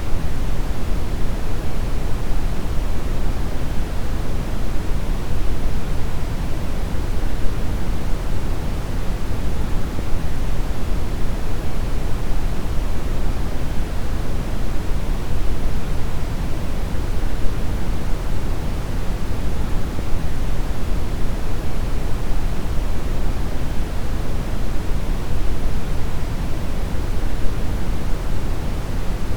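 Steady deep brown noise: an even, unchanging rumbling hiss weighted heavily toward the low end.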